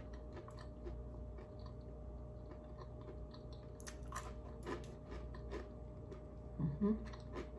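A person chewing a bite of air-fried dumpling, with scattered soft clicks from the mouth. A brief hum of voice comes near the end.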